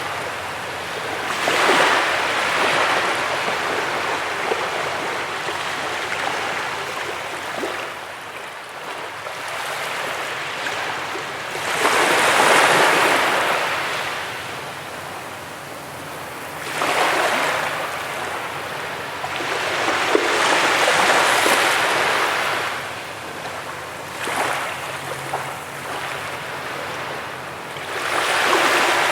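Ocean waves breaking on a beach, the surf washing in and out in swells of hiss that rise and fade every few seconds, the biggest about 12 and 21 seconds in.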